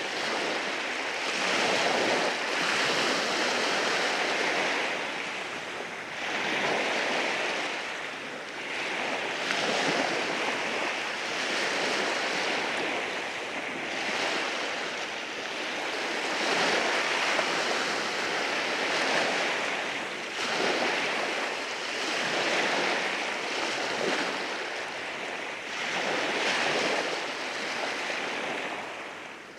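Sea waves breaking and washing over rocks, a continuous hiss of surf that swells and eases every few seconds.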